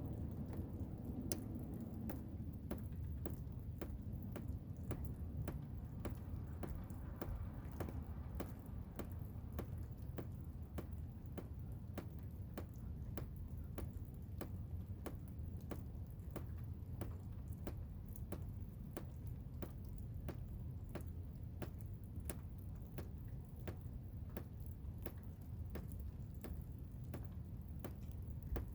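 Blizzard wind as a steady low rumble, with irregular sharp ticks or drips, about two a second.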